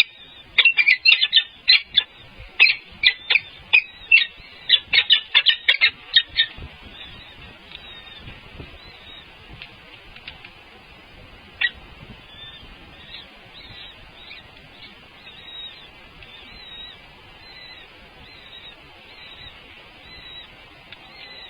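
Birds calling: a run of loud, rapid, shrill calls for about the first six seconds, then fainter short chirps repeating at intervals, with one sharp louder call about halfway through.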